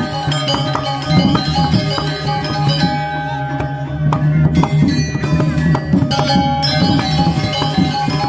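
Balinese gamelan music: metallophones ringing held and struck notes over hand drums, with a dense, steady beat.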